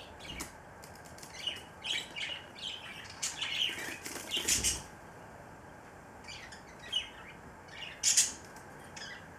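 A cockatiel preening: irregular soft rustles and scratches of its beak working through its feathers. Louder rustles come about halfway through and near the end.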